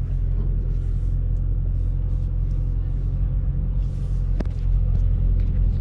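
Dodge Challenger Scat Pack's 6.4-litre HEMI V8 running with a steady low rumble as the car creeps along at low speed, heard from inside the cabin.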